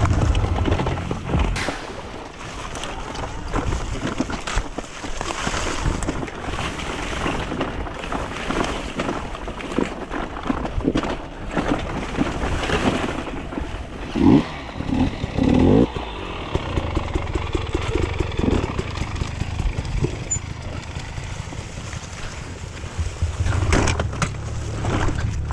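Enduro dirt bike engine running over a rough trail, with frequent knocks and rattles. The throttle is blipped in a few short rising revs about halfway through.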